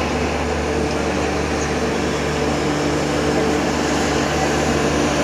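A moving passenger train heard from inside a coach: a steady running rumble with a low, steady drone underneath, growing slightly louder toward the end.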